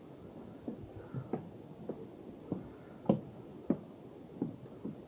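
Footsteps on a wooden boardwalk trail: dull thuds at a steady walking pace, a little under two a second.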